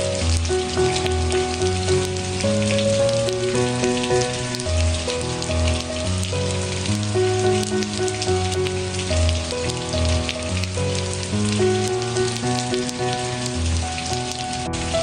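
Steady rain pattering, with soft music of slow, held low notes underneath.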